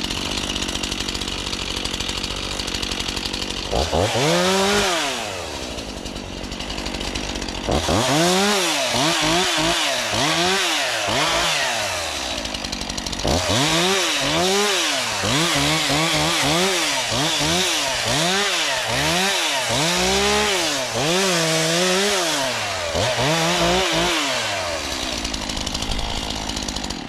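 Gas chainsaw idling, then revved up and down over and over from about four seconds in as it cuts wood, its pitch rising and falling with each squeeze of the throttle.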